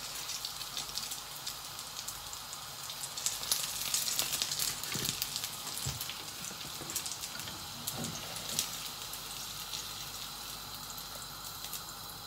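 Oil sizzling and crackling as a butternut squash and shrimp fritter (okoy) fries in a pan. The crackle grows busier about three to five seconds in, then settles.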